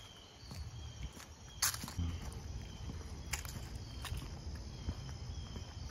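Footsteps of a person walking, irregular steps and crunches, with faint insects chirping steadily behind them.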